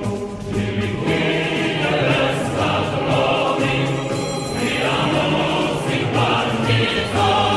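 A choir singing a Russian military march song.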